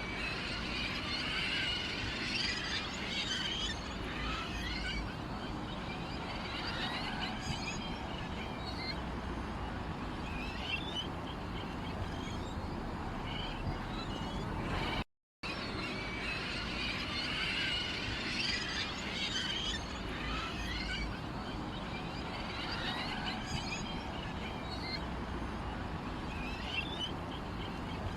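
Many small songbirds chirping and twittering over a steady low background hum. About halfway through there is a brief cut to silence, after which the same passage of chirping repeats.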